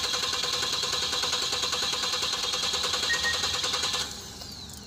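Starter cranking a Nissan NV350 Caravan's four-cylinder spark-ignition engine with the fuel pump fuse pulled, so it turns over in a steady rhythm without firing, for a relative compression test. The cranking stops about four seconds in. The test points to low compression on cylinders 2 and 4.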